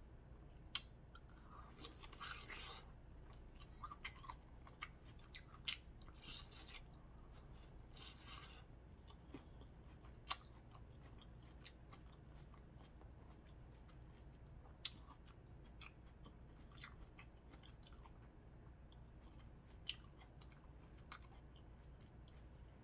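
Quiet eating of a seafood boil: soft chewing, with scattered sharp clicks and a few brief crunching, rustling bursts in the first eight seconds or so.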